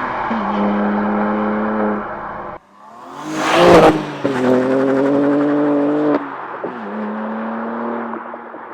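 2023 BMW M2's 3.0-litre twin-turbo straight-six engine and exhaust running at steady revs, with a sharp rev blip about three and a half seconds in. The sound breaks off abruptly twice and returns at a different engine speed, lower and quieter toward the end.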